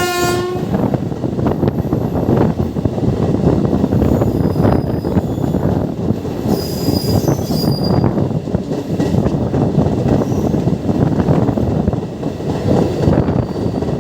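A train running on the rails, a steady rumble and clatter of wheels, with thin high wheel squeals around five and seven seconds in. A brief horn note sounds right at the start.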